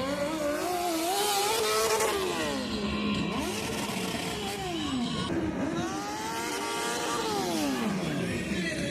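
Motorcycle engine revved hard three times, its pitch climbing and dropping back with each rev.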